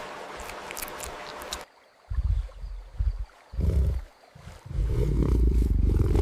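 Running water for the first second and a half, then a panther growling: a series of short, low, loud growls, the last one long and drawn out.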